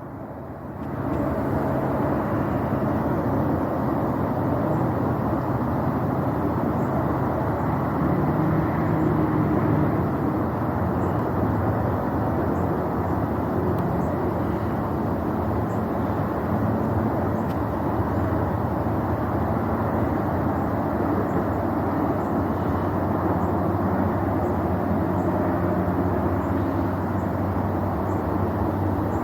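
Distant rumble of a SpaceX Falcon Heavy rocket in flight, a steady deep roar that swells in about a second after the start and then holds. Faint, evenly repeated high ticks run beneath it.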